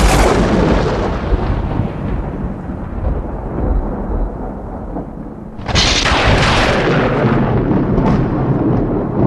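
Strong gusting wind buffeting the microphone, a loud rumbling roar. One big gust at the start eases off through the middle, and a second surges about six seconds in.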